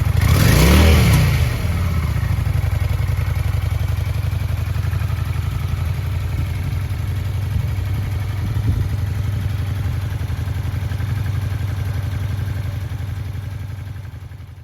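Honda VT400S motorcycle's V-twin engine blipped once, rising and falling in pitch, then settling into a steady idle that fades out near the end.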